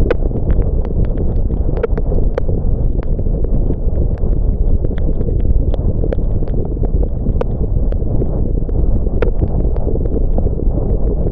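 Car driving in rain: a steady low road and engine rumble, with irregular sharp ticks scattered all through, typical of raindrops striking the car.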